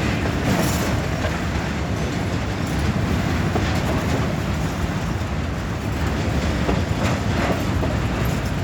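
Long freight train's cars rolling past at speed: a steady rumble of steel wheels on rail with occasional clicks over the rail joints.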